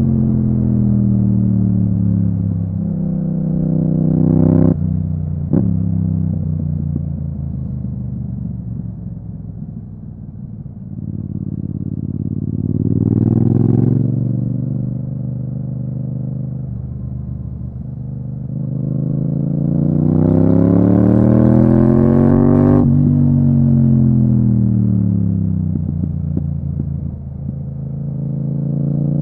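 Yamaha MT-07's parallel-twin engine through an Akrapovič exhaust, heard from the rider's seat. The note falls as the bike slows, climbs twice under throttle and rolls off again, with a few short sharp cracks.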